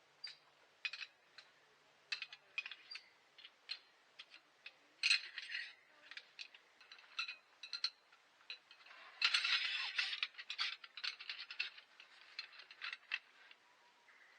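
Small metal camping items clinking and rattling as they are handled, in a run of irregular sharp clicks. Two louder scraping bursts come about five seconds in and again around nine to ten seconds.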